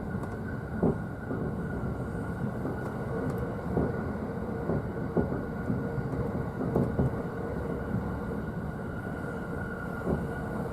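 JR East E531 series electric train running at speed, heard from inside the upper deck of a double-deck car: a steady rumble with a faint hum, broken by the occasional thud of wheels passing over rail joints.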